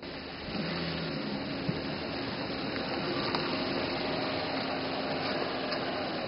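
A car's engine running with a steady rushing noise and a faint hum underneath; near the end a tone slides down in pitch.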